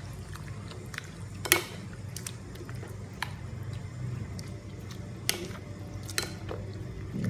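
Cucumber slices being stirred into plain yogurt in a bowl: soft wet squishing, with a few sharp clinks of the utensil against the bowl, about a second and a half in and twice near the end, over a low steady hum.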